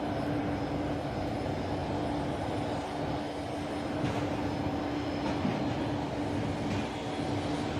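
Jet aircraft engines idling: a steady low rumble with a constant droning hum.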